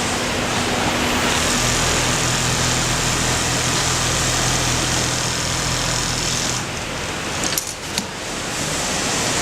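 Automatic pattern sewing machine stitching at speed, a steady mechanical run with a low motor hum. It stops about two-thirds of the way through, with a few sharp clicks, then starts running again near the end.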